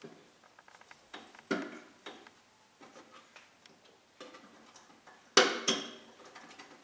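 Irregular clicks and knocks of metal parts and tools being handled while the welding rig is set up, with two louder clanks close together about five and a half seconds in.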